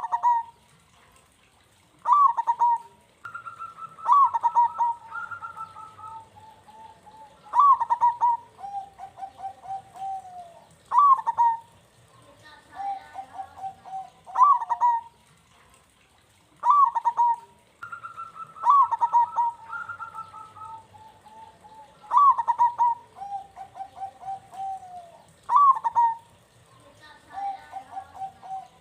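Zebra dove (perkutut) singing: repeated phrases, each a sharp sliding note followed by a quick stuttering run of coos, about every three to four seconds. Twice, a higher-pitched coo overlaps the phrase.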